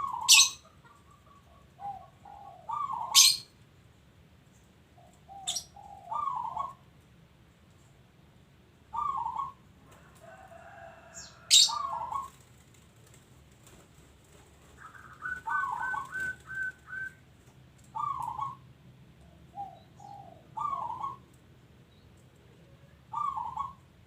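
Zebra dove (local perkutut) cooing: short rolling coo phrases repeated every two to three seconds, with a quick run of rapid notes around the middle. Four loud, sharp high chirps cut in during the first half.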